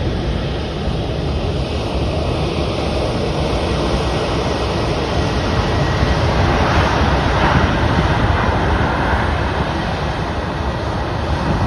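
Jet airliner engine noise: a loud, steady rumble with a rushing hiss that swells from about six seconds in and eases slightly near the end.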